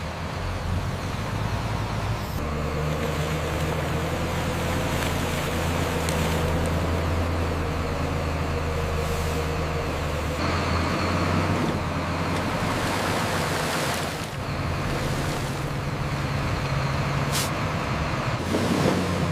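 Heavy truck engine running steadily, with a rushing noise over it; it gets louder about two seconds in.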